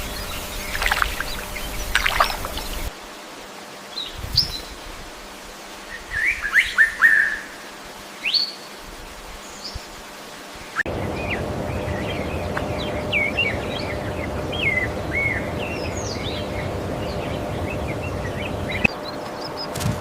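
Birds chirping: a series of short chirps and quick rising whistles, over background noise that changes abruptly a few times.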